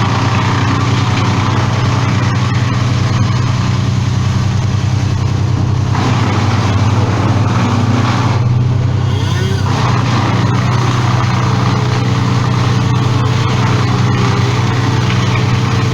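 An engine running steadily at a constant speed, with a hiss over it that thins briefly about halfway through.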